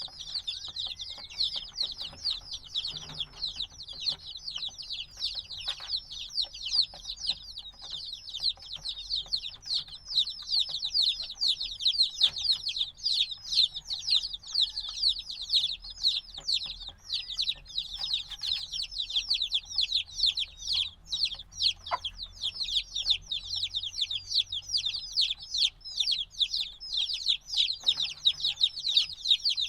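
A brood of baby chicks a few days old peeping without pause, many short high downward chirps overlapping, the loud distress-like peeping of chicks that still want their mother's warmth.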